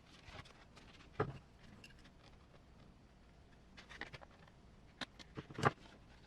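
Light clicks and knocks of small hard parts being handled, with light rustling between them. The sharpest knock comes about a second in, and several more come between about five and six seconds in.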